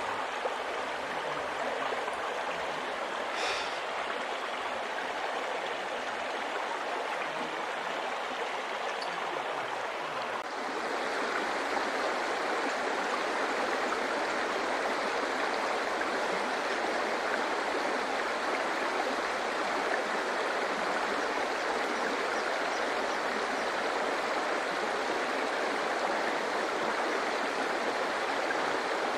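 Flowing stream water, a steady rushing, growing a little louder about ten seconds in.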